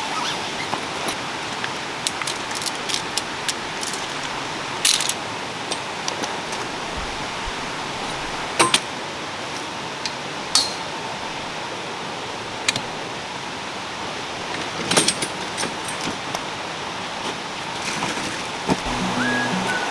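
Steady rushing of water, with scattered sharp clinks and knocks of camping gear being handled while camp is packed up.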